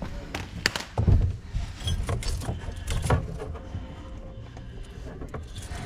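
Irregular clicks, knocks and light metallic clatter of hands and tools working loose an old kitchen faucet, several sharp knocks in the first few seconds over a low rumble.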